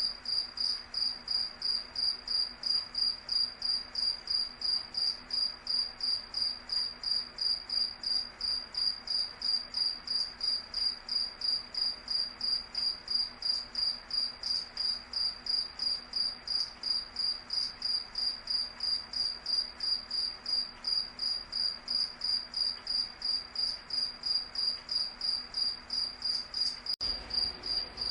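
Crickets chirping in a steady, even rhythm of short, high-pitched pulses.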